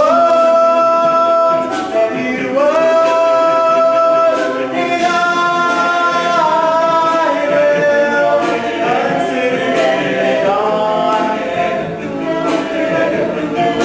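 Men's a cappella group singing a song in close harmony, with no instruments. The voices hold long chords that change every second or two.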